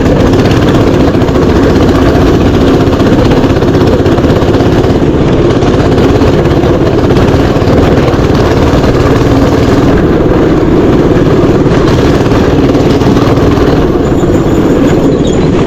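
Mini bike engine running steadily and loud, close to the microphone, as the bike rides along a trail.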